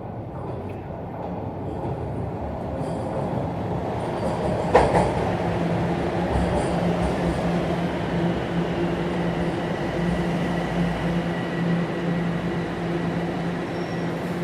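Subway train running between stations. The rumble builds over the first few seconds, a sharp clunk comes about five seconds in, and then a steady hum with a faint higher whine carries on.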